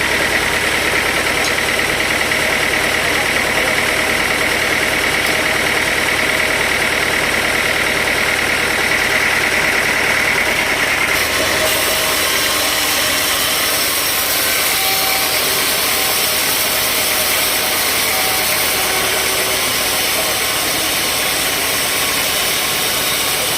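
Sawmill machinery running steadily. A high whine stops about eleven seconds in, and the sound turns hissier.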